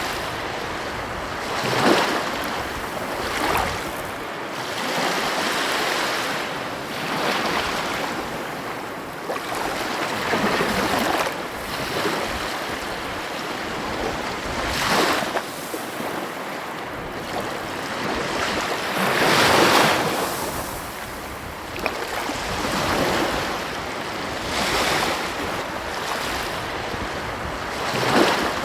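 Ocean waves breaking and washing on a beach, surges of surf every few seconds over a steady rush, with some wind noise.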